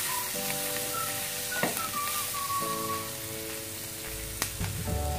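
Diced bell peppers and garlic sizzling in butter in a nonstick pan while being stirred with a spatula, with a couple of sharp taps, under background music.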